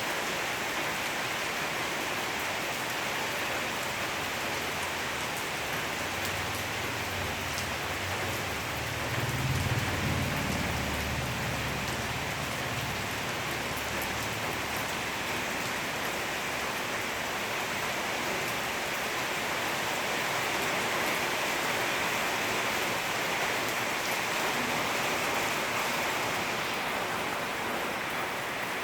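Steady rain falling, a dense even hiss of drops. A low rumble swells and fades about six to sixteen seconds in.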